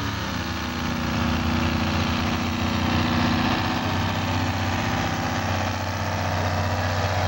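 Diesel pickup truck engine running at a steady pitch, with a dense hiss on top.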